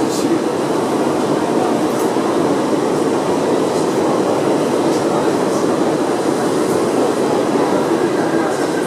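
Inside an R62A subway car on the 7 line, running: a steady, loud rumble of wheels on rail and motors, with a few faint clicks scattered through it.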